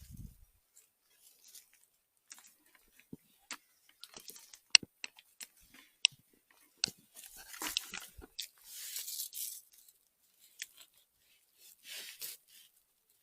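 Dry leaf litter and twigs crunching and rustling in irregular bursts, with sharp twig snaps; the loudest snap comes about five seconds in.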